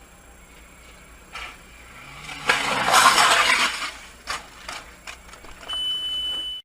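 Traffic: a vehicle engine rises and a loud rush of passing-vehicle noise peaks about three seconds in. Several sharp knocks follow, and near the end a steady high-pitched beep sounds.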